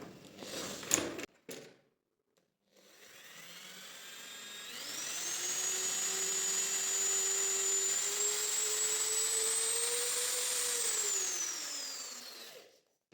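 A small electric motor, most likely a power tool, spins up and runs for about eight seconds with a steady whine that creeps slowly higher in pitch, then winds down with the pitch falling before it stops. A sharp click comes about a second in.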